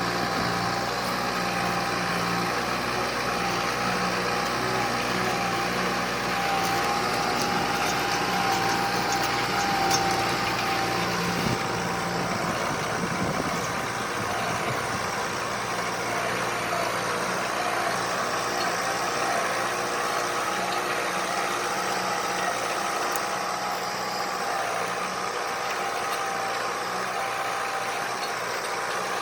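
Kubota tractor's diesel engine running steadily, with a thin steady whine over the engine note.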